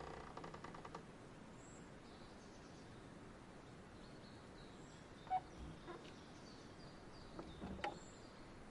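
Quiet outdoor nature ambience: faint, short, high bird chirps over a soft steady hiss, with a quick run of ticks at the start and a few light sharp taps in the second half.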